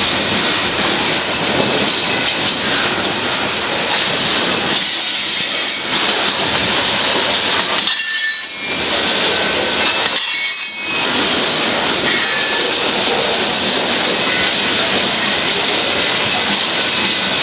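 Freight cars of a Union Pacific train rolling past close by: a continuous rumble of wheels on rail with a steady high-pitched wheel squeal. The rumble briefly thins twice, about halfway through.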